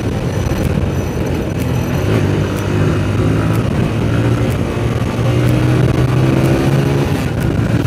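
TVS Apache RTR 160's single-cylinder engine running steadily as the motorcycle rides along, heard from the rider's seat.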